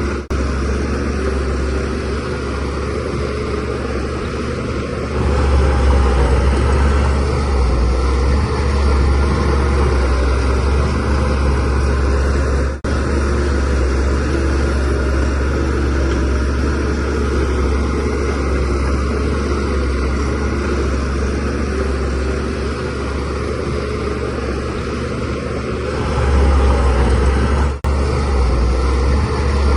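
DH17C3 bulldozer's diesel engine running under load with a steady low hum. The engine swells louder about five seconds in and again near the end as it works harder.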